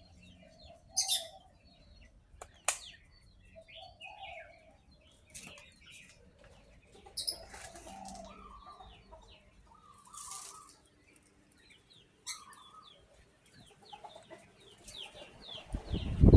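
Birds chirping in short falling notes, with clucking calls and a few sharp clicks. In the last moment a loud, steady rushing noise starts.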